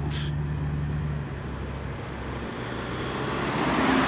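A car engine running low and steady, dropping away about a second in. Then another car approaches, its engine and tyre noise growing louder toward the end.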